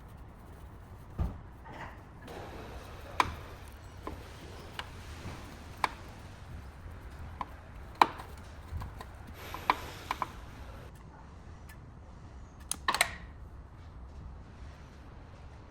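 Irregular sharp clicks and taps, a dozen or so spread out over a low steady hum. The loudest comes about eight seconds in, with a quick cluster of knocks near the end, like hand tools or parts being handled.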